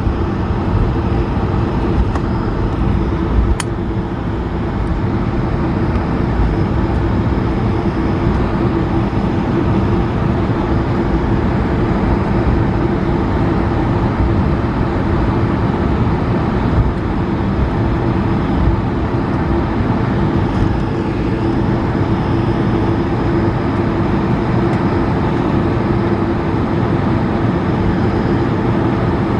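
Steady cabin noise inside an Airbus A220-300: its Pratt & Whitney geared turbofan engines and airflow run at a constant level, with a steady hum running through the noise.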